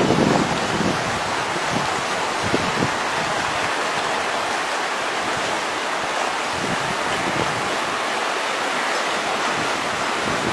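Fast-flowing flooded river rushing steadily, an even roar of water.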